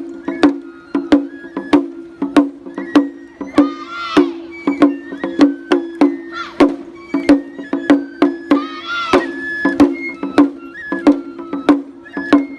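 Japanese festival music for a lion dance: a steady beat of sharp percussive strikes, a little under two a second, over a held low drone, with a wavering high melody coming in every few seconds.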